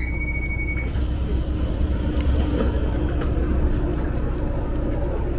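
Diesel railcar running along the line, heard from inside the carriage: a steady low engine hum with wheel-on-rail running noise. A short high tone sounds in the first second.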